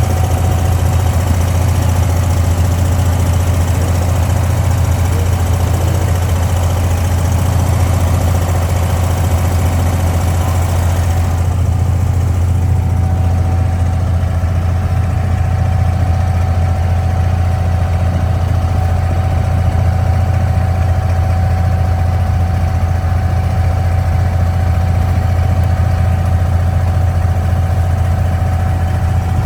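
Diesel engine of an abra water taxi running with a steady low drone. The higher hiss over it eases about eleven seconds in.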